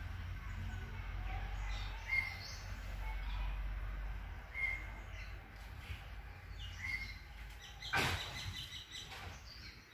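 A bird calling with short chirps repeated every two seconds or so, over a low background rumble. A single sharp knock comes about eight seconds in.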